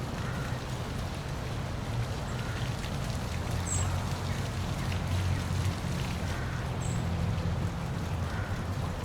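Park waterfall splashing steadily, with a low continuous rumble underneath. A few faint, short high chirps come and go.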